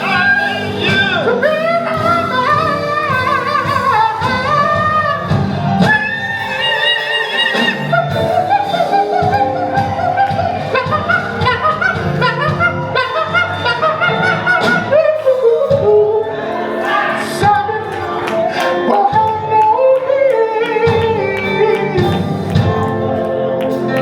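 Live gospel music: a voice singing with bending, drawn-out runs over the accompaniment in a large hall.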